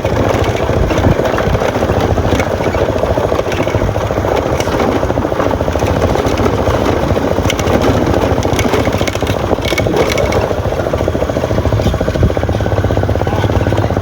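Motorcycle engine running steadily while riding, with a few sharp clicks about ten seconds in.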